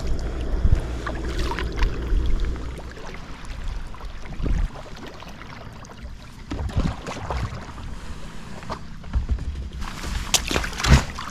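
Kayak paddle strokes dipping and splashing in the river, with wind rumbling on the microphone in the first few seconds. Two sharp knocks near the end.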